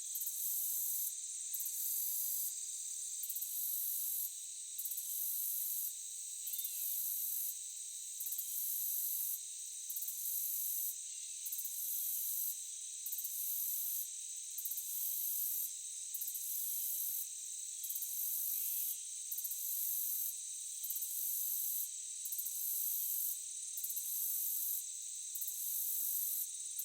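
A chorus of crickets or similar insects makes a steady high-pitched trill. On top of it runs a higher buzzing that pulses, cutting out briefly about every one and a half seconds.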